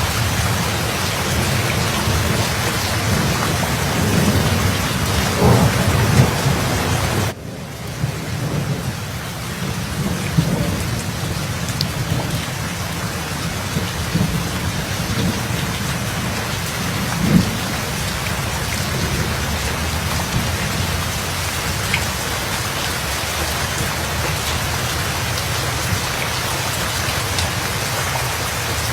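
Steady heavy rain with low rolling thunder. The thunder swells loudest about four to seven seconds in, the whole sound drops sharply just after and builds back over a couple of seconds, and there is another short rumble about seventeen seconds in.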